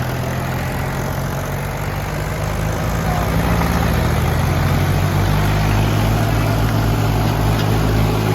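Tractor diesel engine running steadily with a low drone that grows a little louder about four or five seconds in.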